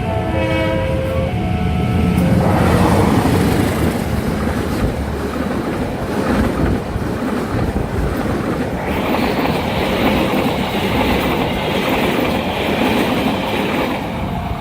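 Level-crossing warning alarm playing its tune for about the first second, then a train passing at speed, its wheels clattering over the rails, for the rest.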